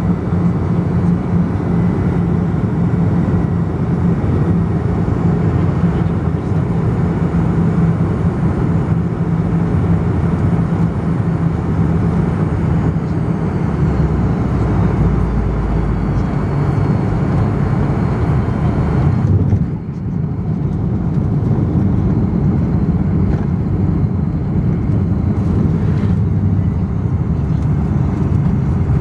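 Cabin noise of a Fokker 100 airliner on its landing, heard from inside the cabin: a steady rumble of airflow and the rear-mounted turbofan engines, with a low hum through the first half. About two-thirds of the way through, the hiss thins and the level dips briefly before the rumble carries on.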